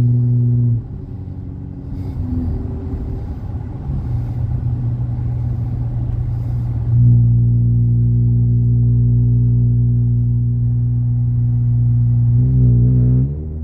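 Dodge Challenger's exhaust through MagnaFlow Magnapack mufflers while driving: a steady low drone that turns rougher and quieter for several seconds, then settles back into a strong steady drone about halfway through. Just before the end it wavers and dips briefly as the revs change.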